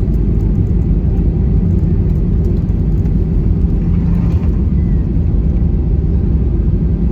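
Steady low rumble inside the cabin of an Airbus A319 with CFM56 engines as it rolls on the ground after landing: engine and wheel noise heard from a window seat.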